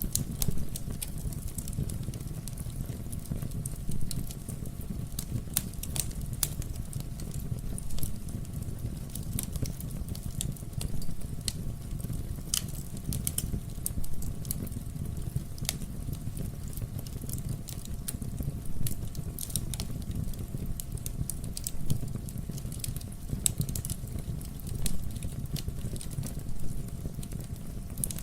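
Wood fire burning in a fireplace: a steady low rumble with irregular crackles and sharp pops from the burning logs, a louder snap every couple of seconds.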